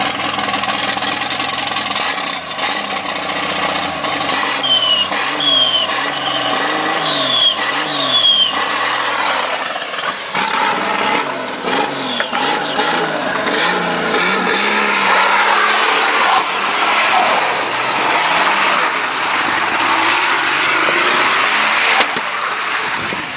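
Turbocharged Chevrolet Caravan straight-six running, then revved in a string of quick blips with a short high whistle after several of them. About ten seconds in, it pulls away hard and runs under power as the car slides sideways on the dirt road.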